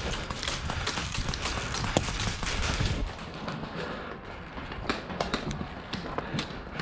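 Footsteps and gear rustling as an airsoft player moves, with scattered sharp pops of airsoft guns firing.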